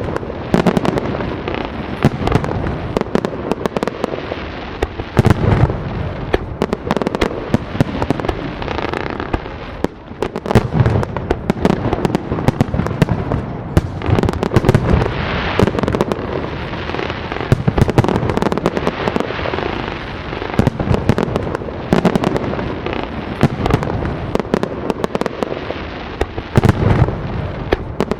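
Fireworks display: a steady barrage of sharp crackling and bangs, with deeper booms every few seconds.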